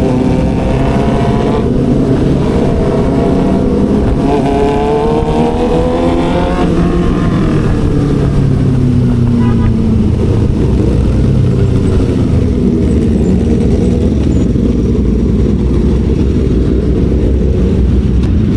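Motorcycle engine and exhaust under way: the revs climb, break briefly for a gear change, climb again, then fall away about a third of the way in and settle into a low, steady run for the rest.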